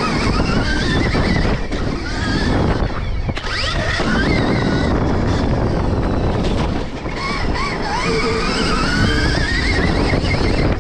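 Stark Varg electric motocross bike's motor whining, its pitch rising and falling again and again with the throttle, over heavy wind rush and rumble.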